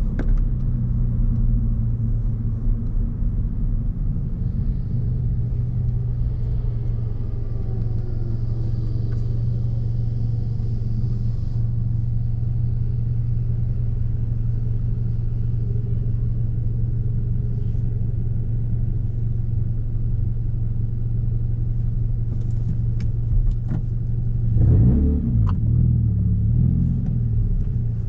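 Scion FR-S's flat-four engine through a straight-through exhaust with the muffler and resonator deleted, droning at a steady low note while cruising. Near the end the revs briefly climb and drop again, with a few sharp cracks around it.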